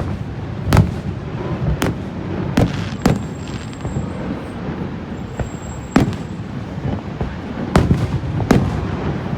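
Fireworks shells bursting in irregular booms, about seven sharp bangs with a second or two between most of them and a longer gap in the middle, over a steady low rumble.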